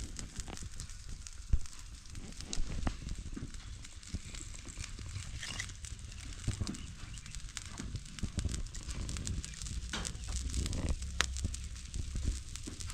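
Cooking fire crackling under a boiling pot, with scattered sharp pops over a low steady rumble.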